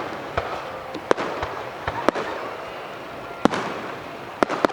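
Aerial fireworks shells bursting: a string of sharp bangs at uneven intervals, about eight in all, some in quick pairs, over a continuous background hiss.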